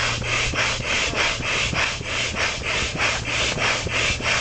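Hand-operated air pump being worked fast to inflate an air mattress, each stroke a rasping whoosh of air, about three strokes a second in a steady rhythm.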